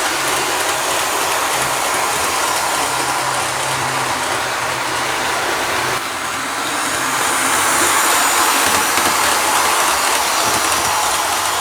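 Bachmann HO scale model train running on its track: a steady whir of the locomotive's motor and wheels rolling over the rails, dipping briefly about six seconds in and then running a little louder. It is running smoothly.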